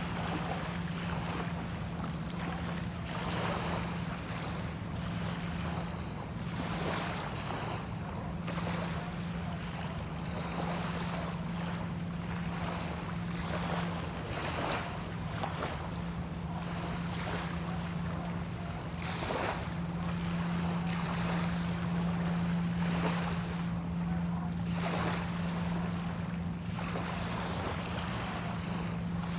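Small waves washing and lapping on a sandy bay shore, one wash every second or two, with wind on the microphone. Under them runs a steady low hum, likely a boat engine, growing a little stronger about two-thirds of the way through.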